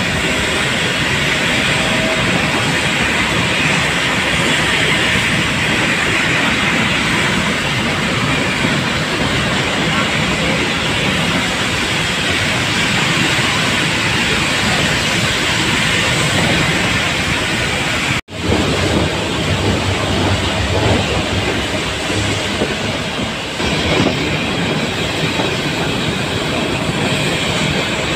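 A steam-hauled metre-gauge Nilgiri Mountain Railway passenger train running along the track, heard from an open carriage, with the wheels and coaches rattling steadily. The sound cuts out for an instant about two-thirds of the way through, then carries on.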